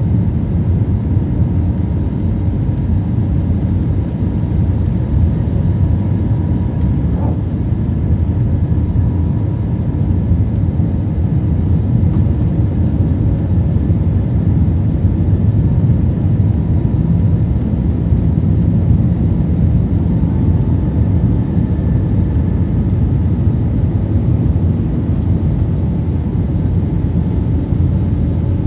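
Airbus A320neo airliner heard from inside the cabin: a steady low roar of engines and rushing air, with a faint steady hum above it.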